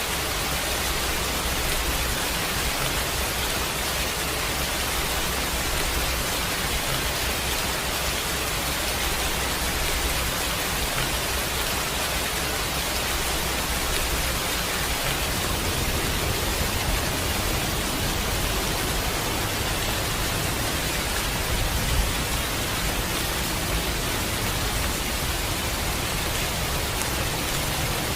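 Steady heavy rain, an even hiss, with a low rumble underneath that changes about halfway through.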